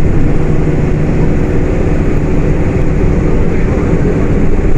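Diesel engine of a Volkswagen Volksbus 18.280 OTS city bus running steadily under way, with road and body noise from inside the moving bus.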